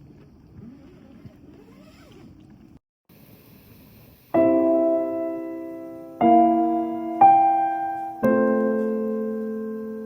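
Faint background noise for the first few seconds, then slow background piano music: sustained chords struck one after another, each ringing and slowly dying away, starting about four seconds in.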